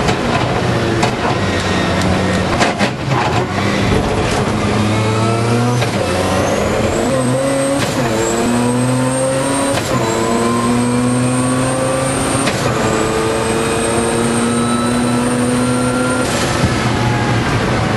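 Mazda RX-7 rotary engine heard from inside the cockpit on a hard lap. After some uneven running and a few knocks early on, it pulls hard up through the gears: the pitch climbs and drops sharply at each upshift, about every two seconds, the last gear held longer before a lift near the end. A high whine rises alongside the engine note.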